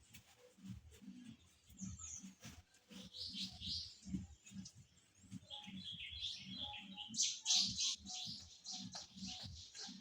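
Chickens in a coop: many short, high chirps and peeps over a steady run of soft low pulses, about two to three a second.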